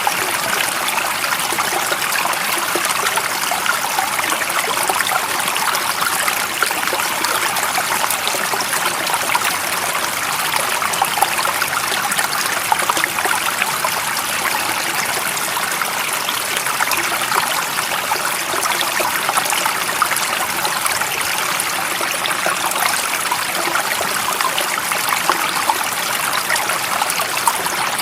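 Water running in a stream: a steady, even rushing with many fine splashes and trickles.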